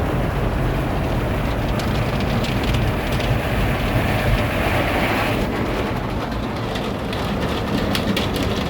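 Automatic car wash heard from inside the vehicle: a steady rumble of the wash machinery and water on the body. A hissing spray swells in the middle and cuts off about five seconds in, followed by a rapid patter of water droplets ticking on the body and glass.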